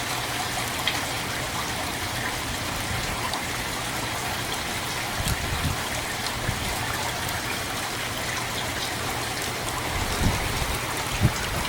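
Steady rain falling in a thunderstorm: an even hiss of rain with scattered drops, and a few short, dull low thumps about halfway through and near the end.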